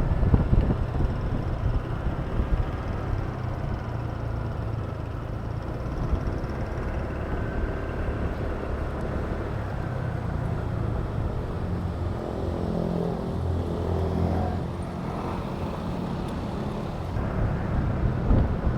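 Honda Click 125 scooter's single-cylinder engine running under way, mixed with steady road and traffic noise; an engine note stands out more clearly from about twelve to fifteen seconds in.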